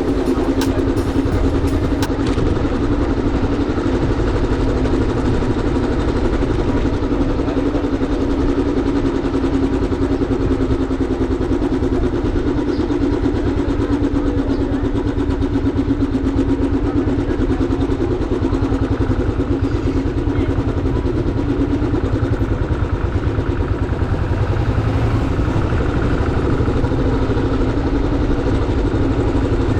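Motorcycle engine running steadily, with a fine, even pulse. A few short clicks are heard in the first two seconds.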